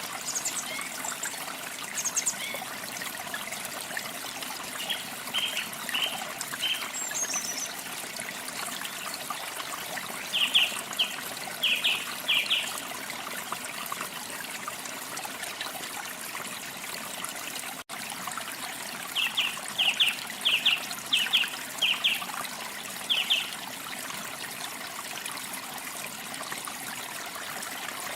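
Small songbirds chirping over a steady trickle of running water. The chirps come in three short runs of quick, sharp notes, with one thin falling whistle early on.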